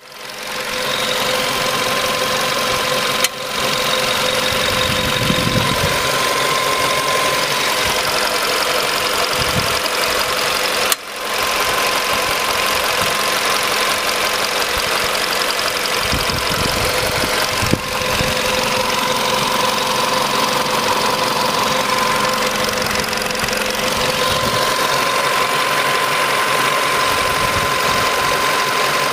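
VW Polo Sedan engine idling steadily, with a constant whine running over it and the sound dipping briefly three times.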